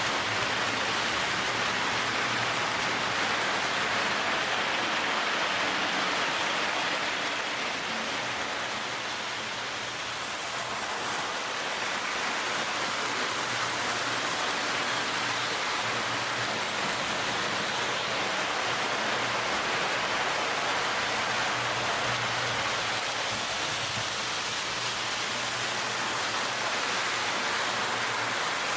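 Lionel O gauge D&H U36C diesel locomotives running on three-rail track: a steady rushing rumble of wheels and motor with a low hum underneath, easing slightly about ten seconds in and then building again.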